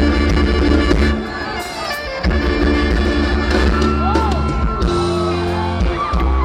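Live amplified band playing Isan folk-pop music, with a heavy sustained bass line under gliding melody notes.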